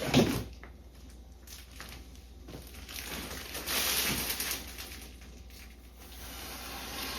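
Rustling and crinkling handling noises with a few light knocks, loudest as a broad rustle about four seconds in.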